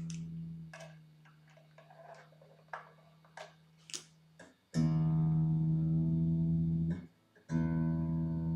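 1997 Squier Jagmaster electric guitar string ringing and fading away. A few small clicks and handling noises follow, then the same note is plucked and left to ring, stopped short, and plucked again. This is the string being checked while its intonation is set.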